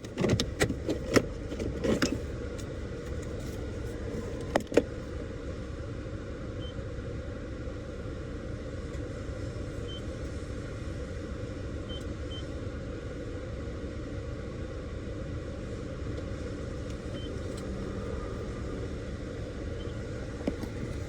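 Car idling, a steady low rumble, with several clicks and knocks in the first five seconds and a few faint short beeps scattered through the rest.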